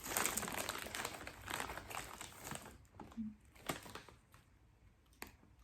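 Crinkly chip bag being handled, a dense crackling rustle for the first couple of seconds, then a few isolated light clicks and rustles.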